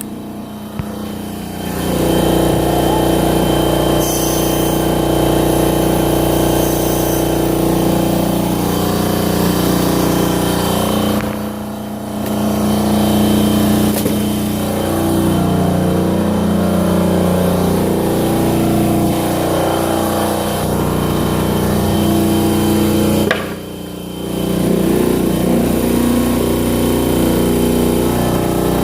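Husky 30-gallon air compressor running steadily, its motor and pump refilling the tank, with a brief dip in level twice.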